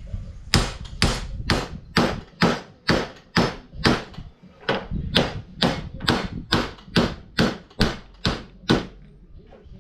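Hammer blows on an impact socket, driving a new spindle bearing onto the tight spindle shaft of a mower deck. About nineteen evenly spaced metallic strikes, roughly two a second, each ringing briefly. They start about half a second in and stop near the end.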